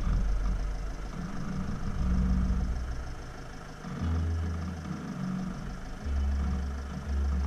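Renault Trafic camper van's engine running at low revs as the van is crept slowly along a rough track, its low hum rising and falling several times with the throttle.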